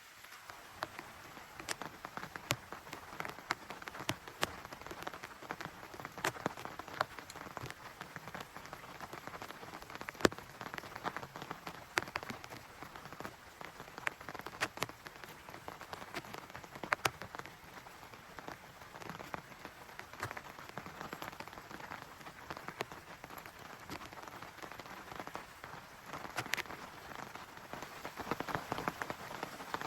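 Steady rain, with many single drops striking close by as sharp, irregular ticks over the constant patter.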